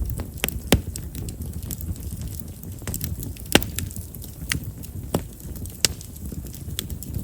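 Chestnut firewood burning in a bonfire, crackling with many small clicks and a few sharp pops, the loudest about three and a half seconds in, over a low steady rumble. Chestnut's large pores make it a wood known for popping as it burns.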